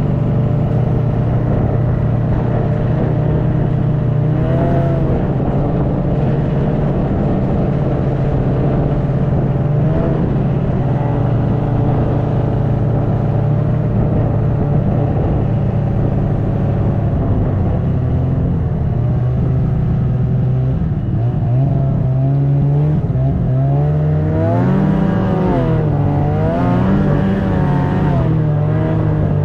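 Snowmobile engine running steadily while under way, its pitch rising and falling repeatedly in the last third as the throttle is worked.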